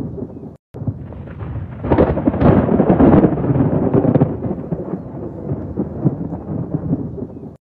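Rolling thunder in a heavy thunderstorm: a crackling rumble that swells to a loud peak about two seconds in, then rumbles off. The sound cuts out briefly just before a second in.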